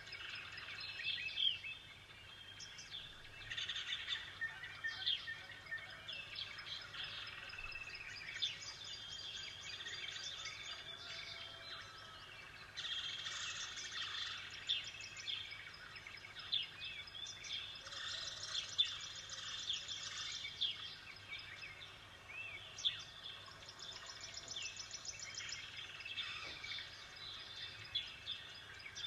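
A chorus of small birds chirping and singing, many short overlapping calls and trills, with a faint steady low hum beneath.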